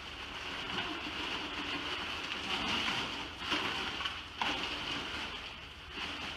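Ice cubes being poured into a plastic gallon bag: a steady rattling clatter of ice against ice and plastic, with a few sharper clacks.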